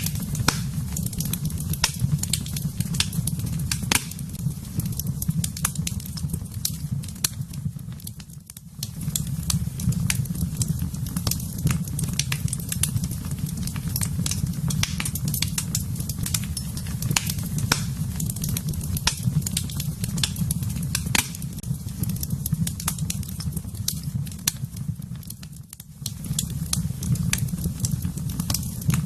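Wood fire in a fireplace crackling, with frequent sharp pops over a steady low rumble. The sound briefly drops away twice, about a third of the way in and again near the end.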